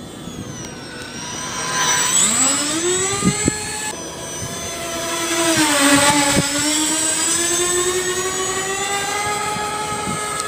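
Electric ducted fans of an RC A-10 Warthog model jet whining: the pitch climbs sharply about two seconds in, sags a little around the middle, then rises slowly again and holds as the throttle changes. A few short clicks sound over it.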